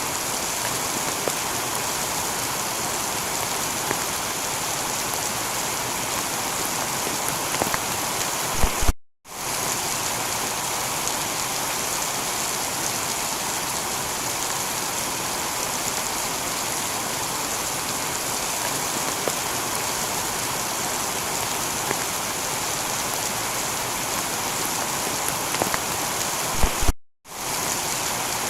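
Steady heavy rain falling on a tiled roof. The sound cuts out for a moment twice, about nine seconds in and near the end, each time just after a short low thump.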